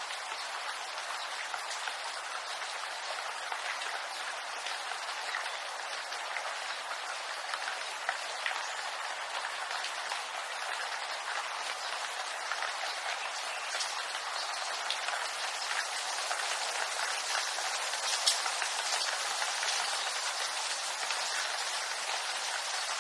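Steady rain falling in a bamboo grove: a dense, even patter of drops on leaves, with one sharper drop about eighteen seconds in.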